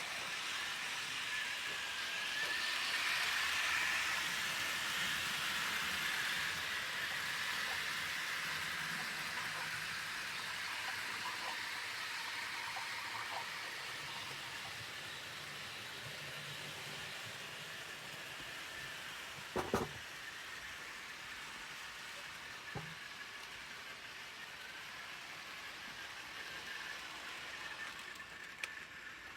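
HO-scale model steam locomotive and passenger cars running on the track: the small electric motor hums with a faint high whine over the rolling wheels. It is loudest a few seconds in, then slowly fades as the train moves away, with a couple of sharp clicks past the middle.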